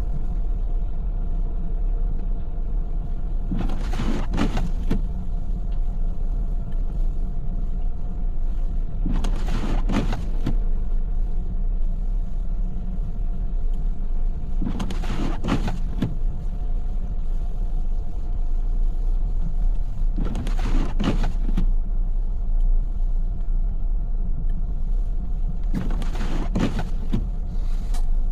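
Inside a moving car in snow: steady low road and engine rumble. About every five and a half seconds comes a short two-stroke sweep, the windshield wipers on an intermittent setting.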